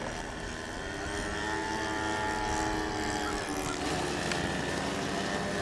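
Model airplane engine running with its propeller, the pitch gliding gently as its speed changes, with more than one engine tone overlapping; the pattern shifts about four seconds in.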